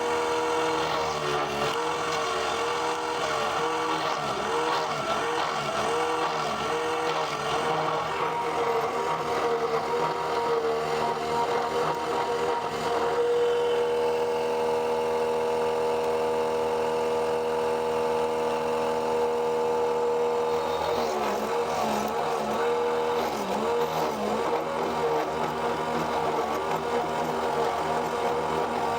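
Electric woodworking machine motor running steadily, its hum wavering in pitch up and down through the first several seconds and again near the end.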